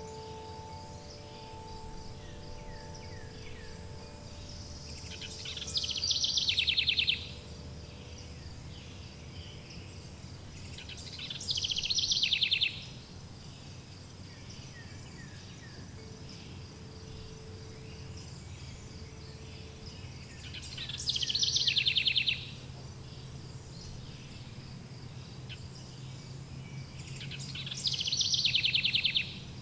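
Nature ambience of insects: a steady high-pitched cricket trill, with four louder rapid-pulsed trills about every six to eight seconds. Soft wind chime notes ring and fade in the first few seconds and again around the middle.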